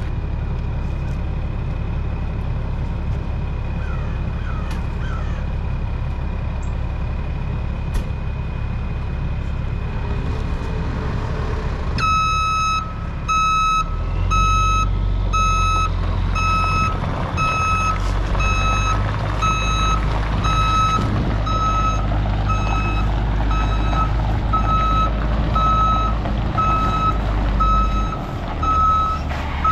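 A heavy diesel machine idling steadily, then about twelve seconds in a reversing alarm starts beeping, about once a second, as the engine picks up and the machine backs up.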